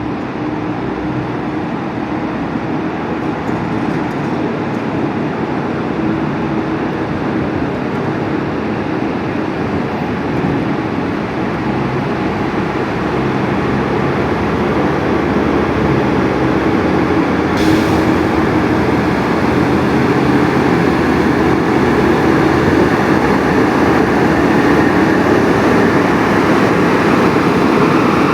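Engine of a Kalmar heavy loader truck running steadily with a low hum. It grows gradually louder.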